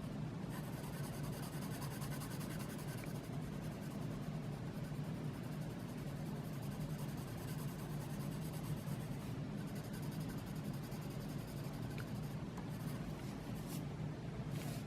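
Gold colored pencil shading on sketch paper, a steady soft scratching as it is rubbed over marker to even out blotchy spots.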